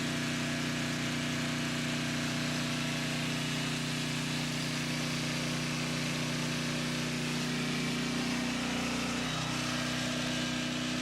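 Portable gasoline generator running steadily under the load of an 18,000 BTU air conditioner, a constant engine hum whose pitch shifts slightly about nine seconds in.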